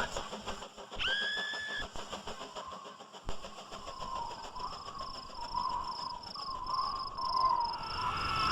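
Toy vehicles running and clattering along track in a chain-reaction contraption, with steady rapid clicking. A short whistle-like tone sounds about a second in, and a wavering tone runs from about two and a half seconds until near the end.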